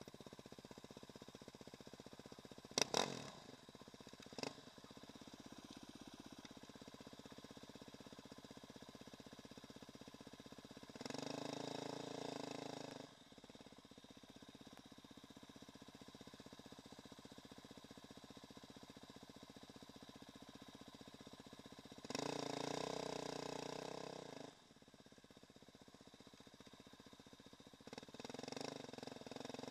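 Dirt bike engine running at low speed, opened up three times: about 11 seconds in for a couple of seconds, about 22 seconds in for a couple of seconds before dropping back, and again near the end. Two sharp knocks sound about 3 and 4.5 seconds in.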